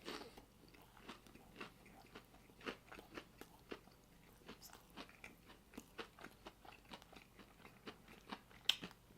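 Close-up chewing of a crunchy air-fried breaded chicken sandwich: faint, irregular crunches and crackles.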